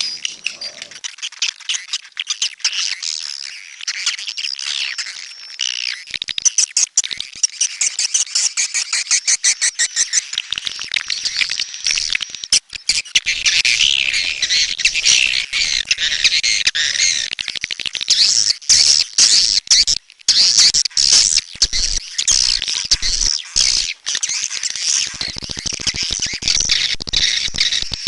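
Swiftlets twittering in a dense chorus of rapid chirps and clicking trills, thinner at first and thickening after about six seconds.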